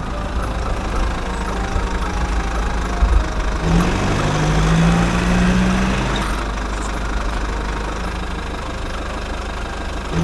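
Engine running steadily with a low hum, its pitch rising about four seconds in and again near the end, with a hiss over the middle stretch.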